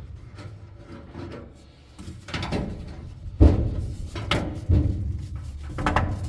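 Irregular knocking and scraping of hard objects being handled, with several heavier thuds in the second half.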